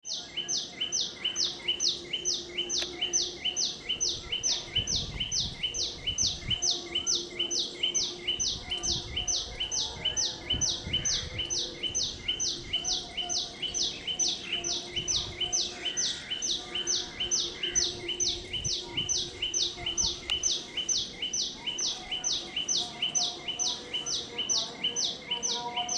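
A bird chirping in a steady rapid series, about three short falling high-pitched chirps a second. A fainter lower note comes and goes beneath it.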